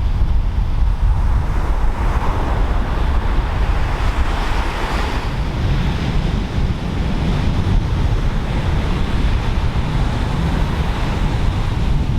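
Pacific Ocean surf breaking and washing ashore, with a wash of hiss swelling a couple of seconds in. Wind buffets the microphone with a steady low rumble.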